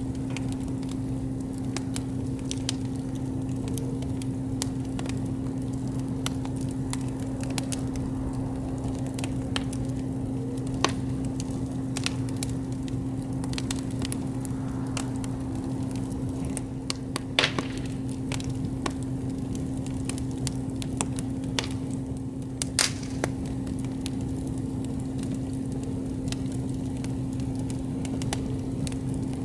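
Wood campfire crackling, with many irregular sharp pops and a brief hiss about halfway through, over a steady low hum.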